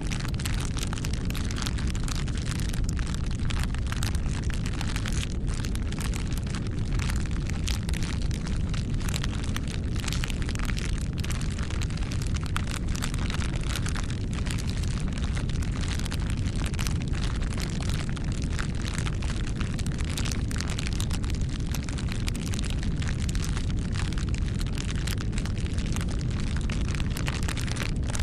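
Campfire burning: a steady low rumble of flames with frequent, irregular crackles and pops.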